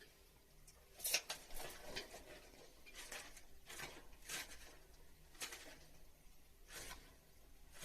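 Intermittent rustling and scraping from hands handling materials, a string of short noisy scrapes spread a second or so apart, the loudest about a second in.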